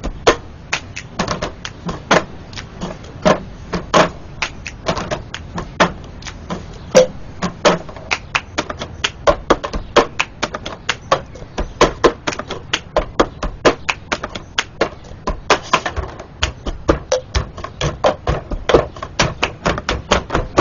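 Cup-game percussion: plastic cups clapped, tapped and slapped down on a table together with hand claps, a fast, busy rhythm of sharp taps. There are several hits a second.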